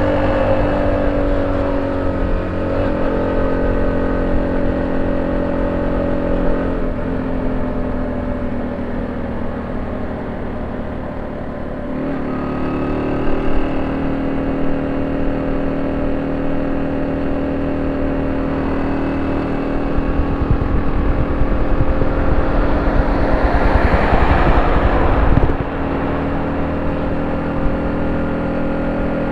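Honda C70's small single-cylinder four-stroke engine running through a banana-style ('pisang') exhaust, mostly holding a steady speed that shifts up and down. Midway the engine speed rises, and near the end a louder rev drops off suddenly.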